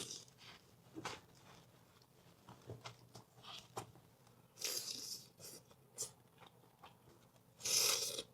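Close-up eating sounds of someone chewing a birria taco: quiet chewing with scattered small wet mouth clicks, and two louder brief noisy bursts, one about halfway through and one near the end.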